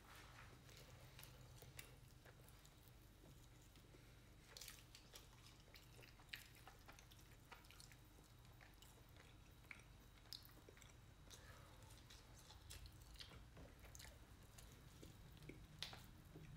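Faint chewing and mouth sounds of a person eating fried chicken, with a few scattered soft clicks, over a low steady hum.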